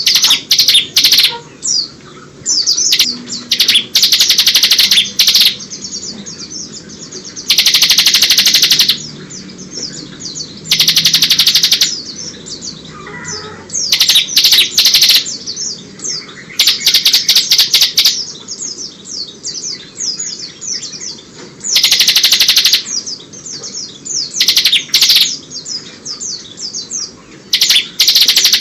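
A ciblek (bar-winged prinia) singing: loud, rapid high trills of about a second each, repeated every few seconds, with quicker chirps in between. Its song is filled with phrases copied from the white-eye (pleci).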